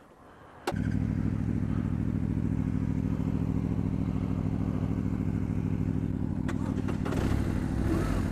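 BMW R1200RT's flat-twin boxer engine starting up suddenly less than a second in, then idling steadily.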